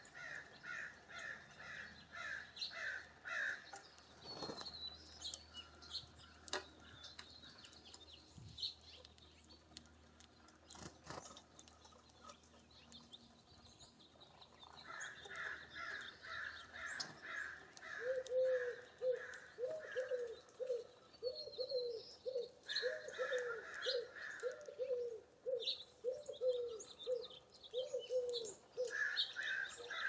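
Wild birds calling: bouts of quickly repeated chirping notes come and go, and about halfway in a lower, louder call repeats steadily for roughly ten seconds, with scattered light clicks.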